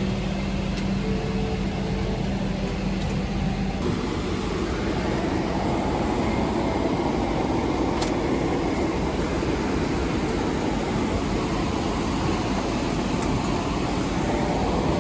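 Steady rumble inside an airliner cabin. A low steady hum gives way to a broader, louder rumble about four seconds in.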